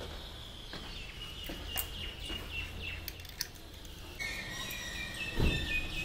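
Birds singing: repeated short phrases of clear high notes that step down in pitch, over a low steady background rumble, with a dull thump near the end.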